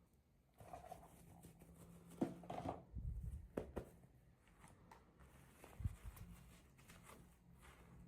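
Quiet handling noises from unboxing toy packaging: scattered soft clicks, taps and rustles, busiest from about two to four seconds in, with one sharper knock near six seconds.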